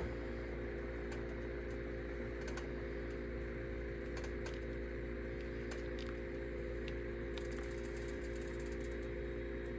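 A steady mechanical hum with several held tones, like a small appliance motor or fan running, with scattered light clicks and ticks over it.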